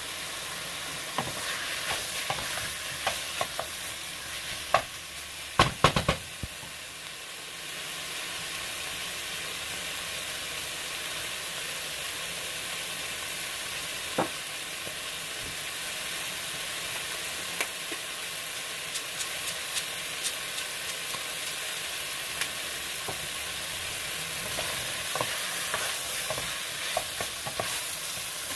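Chicken and onions sizzling steadily in a stainless steel pot, with a wooden spoon scraping and knocking against the pot as they are stirred. The loudest knocks come in a quick cluster about five to six seconds in, with more scattered ones in the second half.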